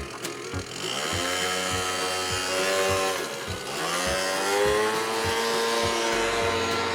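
Motorcycle engine accelerating: its pitch rises, drops at a gear change a little past halfway, then rises again and holds. A faint music beat runs underneath.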